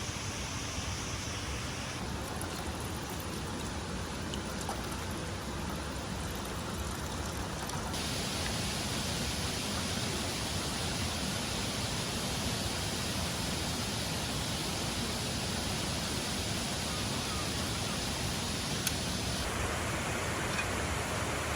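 Steady rushing of a waterfall and flowing water. Its tone changes abruptly about two, eight and twenty seconds in.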